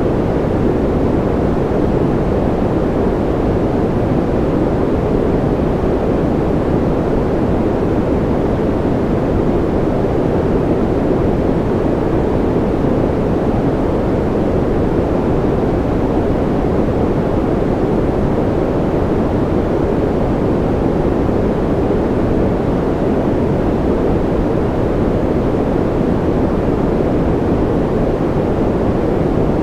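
Steady, unchanging white noise sleep track: a deep, muffled hiss with most of its energy low and little at the top.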